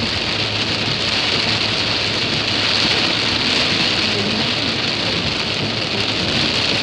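Heavy rain beating steadily on a moving car, heard from inside the cabin.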